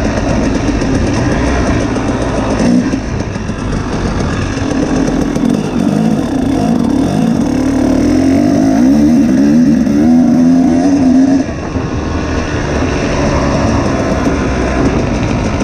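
Two-stroke dirt bike engine running hard under load, its pitch wavering up and down as the throttle works. It eases off briefly about eleven seconds in, then picks up again.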